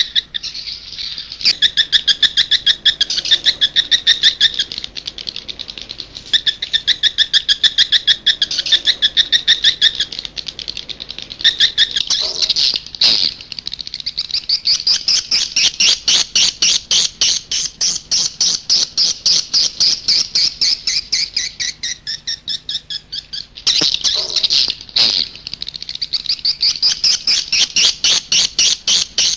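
Edible-nest swiftlet lure-call recording played back: rapid runs of high twittering chirps, several a second, broken by short pauses. This is the outdoor calling sound used to draw swiftlets to a bird's-nest house.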